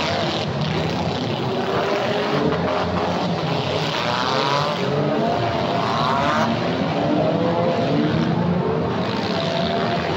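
Several demolition derby cars' engines running at once and revving, with two rising revs a few seconds apart in the middle.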